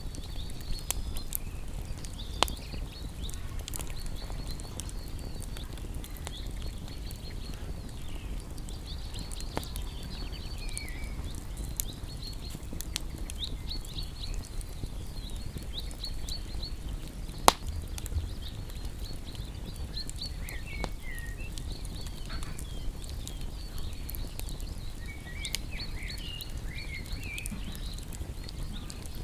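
Wood fire crackling with a steady low rumble and a few sharp pops, the loudest about two-thirds of the way through, while small birds chirp and twitter in quick, high repeated notes.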